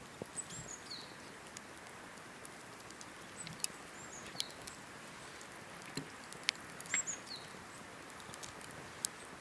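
Cedar-wood campfire crackling, with a soft steady hiss and sharp irregular pops. A bird gives several short high whistles that fall in pitch.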